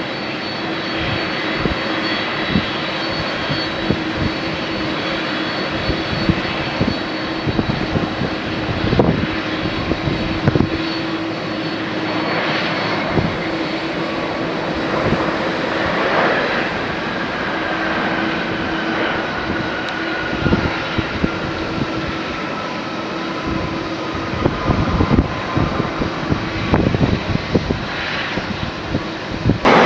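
Jet engines of a Boeing 767-300 freighter running steadily at low power: a steady roar with a hum and a high whine. Gusts of wind buffet the microphone throughout.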